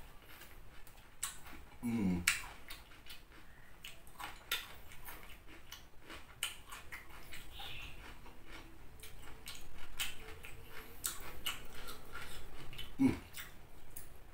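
Close-up crunchy chewing of raw vegetables dipped in spicy rujak sambal, a steady run of small crisp crunches and mouth clicks. Two short low sounds falling in pitch come about two seconds in and near the end.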